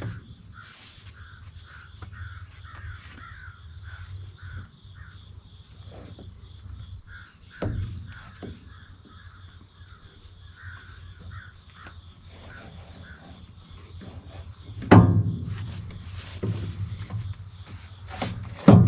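Insects chirring steadily with a fast pulsing trill. There is a light knock about eight seconds in and a heavy clunk near the end as the baler's drive shaft is handled.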